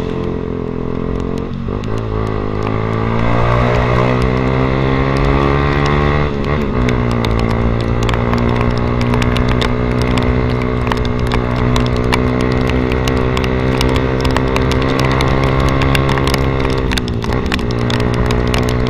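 Yamaha Vixion's single-cylinder engine heard through an aftermarket SC Project-style exhaust while riding, running at steady revs. The pitch drops briefly and recovers about a second and a half in, around six seconds, and again near the end.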